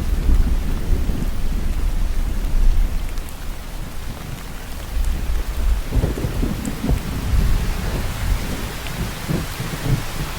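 Steady rain falling, with a low rolling rumble of thunder underneath that swells at the start and again a little past halfway.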